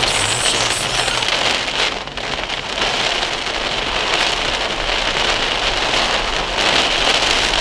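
Heavy rain falling steadily as an even hiss, with a brief dip in loudness about two seconds in.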